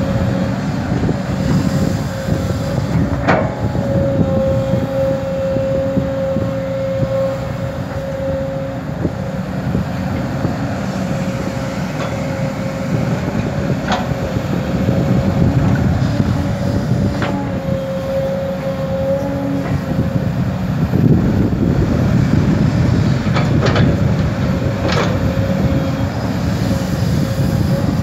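Kobelco SK200 excavator's diesel engine running under load, a loud steady rumble with a steady whine above it, and sharp clanks a handful of times.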